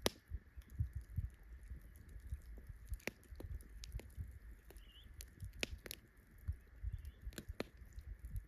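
Close-up eating: irregular soft chewing and biting sounds, with a few sharp clicks scattered through, over a faint steady hiss.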